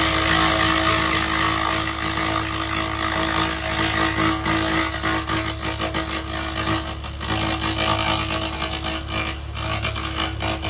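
2000 W handheld laser rust remover running on rusty metal: a steady buzzing tone over a low hum, with a dense crackling hiss from the beam.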